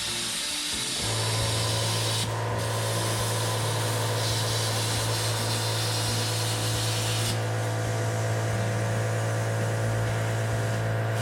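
BestArc plasma cutter cutting: a steady hiss of air and arc, with a low steady hum that comes in about a second in.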